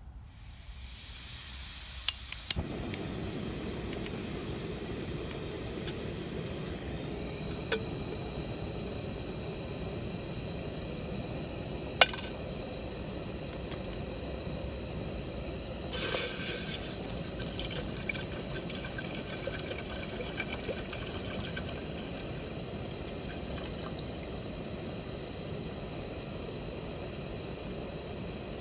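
Wood bonfire burning: a steady rushing noise that comes up about two seconds in, with a few sharp pops from the burning wood and a short burst of crackling about halfway through.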